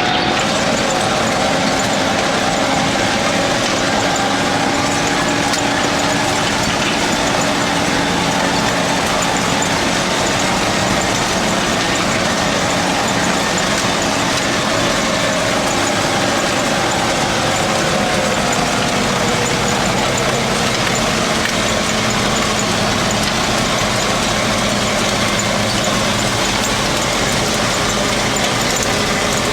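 ZIL-131 army truck's V8 petrol engine running steadily, its pitch drifting slightly up and down.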